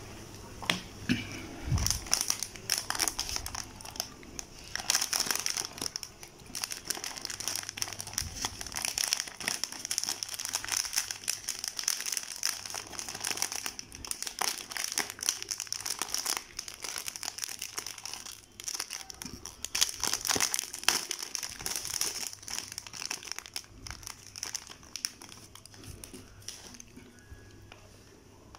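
Food packaging wrapper being crinkled and handled with dense, irregular crackling as a convenience-store snack is unwrapped. The crackling dies away near the end.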